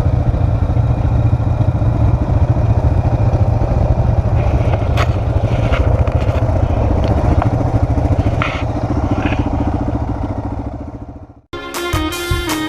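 Four-wheeler (ATV) engine running steadily under way, with a few rattles and clacks, fading out about eleven seconds in. Music with a fiddle starts near the end.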